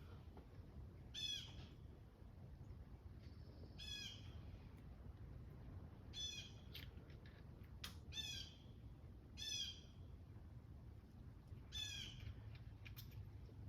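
A bird calling repeatedly: six short, harsh calls a couple of seconds apart, with a few faint clicks and a low steady hum underneath.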